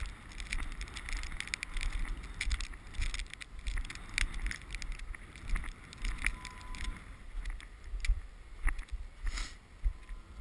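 Strong wind buffeting the microphone in uneven gusts, with many scattered sharp clicks and crackles.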